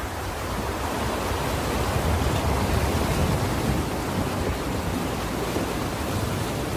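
Ocean surf: a steady wash of breaking waves, swelling a little in level about two seconds in and easing again.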